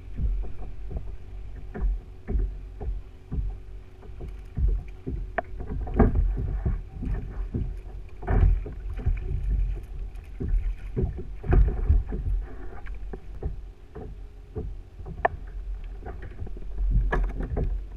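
Irregular knocks and bumps on a fishing kayak's hull, with water sloshing and a low wind rumble on the microphone.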